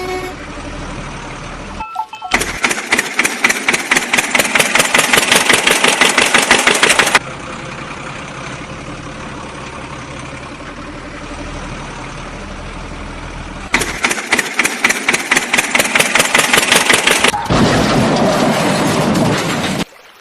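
Vehicle engine sound effect: two runs of fast rattling pulses, like an engine cranking and revving, with a steadier idle-like running between them.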